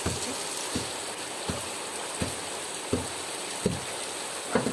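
Steady rain falling, an even hiss throughout, with a series of soft, low thumps about every 0.7 seconds.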